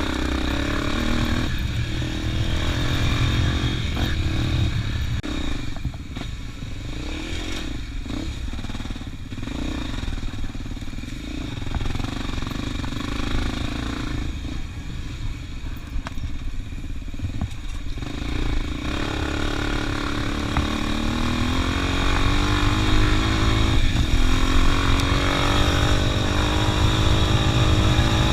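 Motorcycle engine running under way, with a steady low rumble of wind and road. From about two-thirds of the way in, the engine pitch rises steadily as the bike speeds up.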